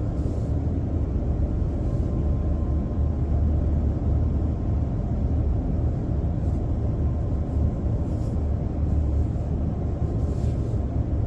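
A car idling: a steady low rumble that holds even throughout, with a faint steady hum above it.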